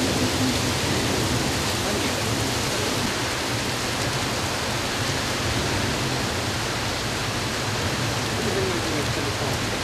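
Heavy downpour: rain falling in a steady, unbroken hiss.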